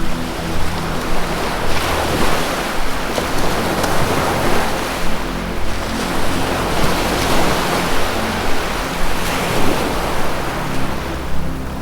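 Ocean surf breaking and washing back, the wash swelling and fading about every five or six seconds, over a low held music tone.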